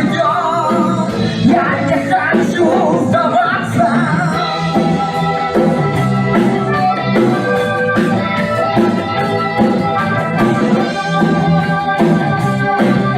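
A band playing a song with drums, a singing voice in the first few seconds, then an instrumental passage of held notes over a steady drum beat.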